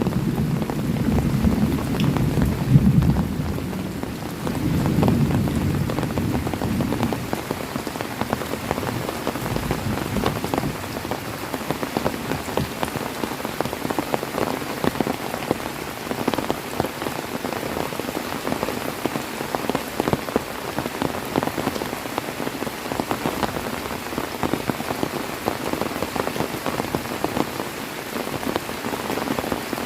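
Heavy rain pattering steadily on a surface, with a close, dense ticking of drops. A low rumble of distant thunder dies away over the first several seconds.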